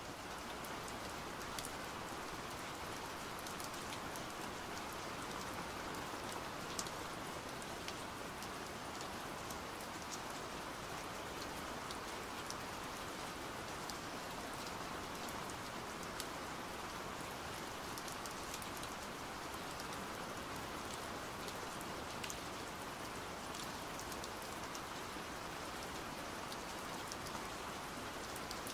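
Steady rain: an even hiss of falling rain with scattered sharp ticks of single drops.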